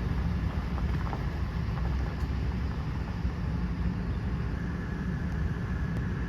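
Steady low rumble of a vehicle running, heard from inside the cab as it moves slowly toward the lake launch.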